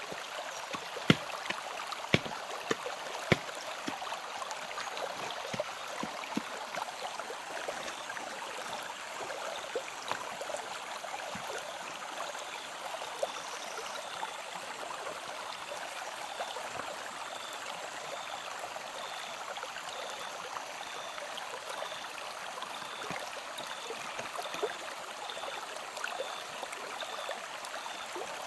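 Steady rush of flowing stream water, with a few sharp knocks in the first few seconds and a faint high chirp repeating steadily through the later part.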